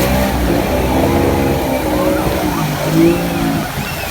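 Motorboat engine running, its pitch rising and falling as the throttle changes.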